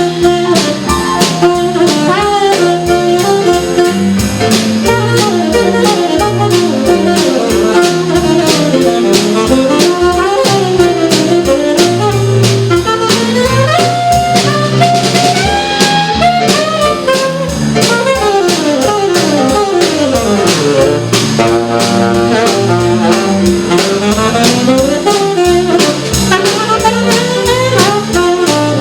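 Jazz trio playing an instrumental break. The saxophone leads with a melodic solo of runs and slides over keyboard and a steady drum-kit beat.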